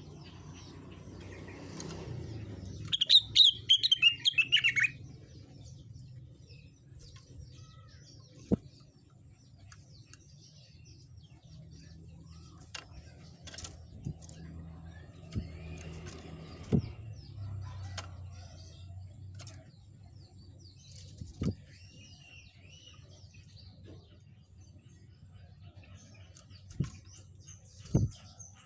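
A songbird sold in Indonesia as a rengganis sings a loud burst of rapid, falling chirps about three seconds in, then gives only a few faint twitters. Several short sharp knocks fall at odd moments over a steady low hum.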